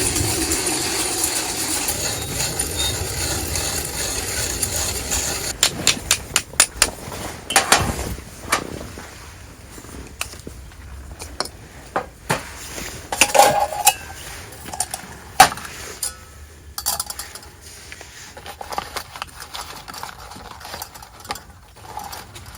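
Camp cooking gear clinking and knocking: a scatter of sharp clicks and taps, some in quick runs, begins about five seconds in, after a steady rushing noise that fades out.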